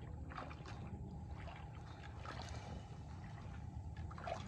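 Water sloshing and dribbling as a rooster carcass is dunked in a pot of scalding water at about 150 °F to loosen its feathers before plucking.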